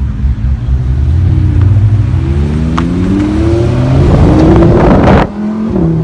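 Lamborghini Huracán Spyder LP610-4's V10 engine accelerating hard, its note rising steadily through a gear for about four seconds. A little over five seconds in, a quick upshift cuts the sound and drops the pitch, and it starts to climb again.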